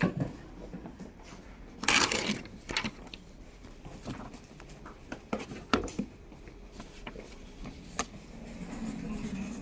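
Handling noise: rustling with scattered light clicks and knocks, a louder rustle about two seconds in, over a low steady background hum.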